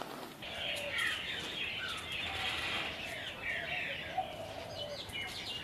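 Birds chirping, many short calls overlapping.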